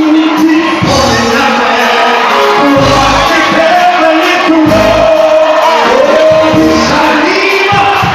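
Live gospel music in a large hall: sung vocals over a band with a steady bass-and-drum pulse, with some shouting from the congregation.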